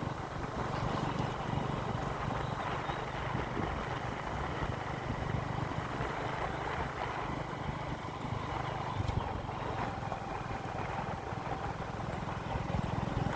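Motorcycle engine running steadily while riding, with a constant low hum under rushing road noise.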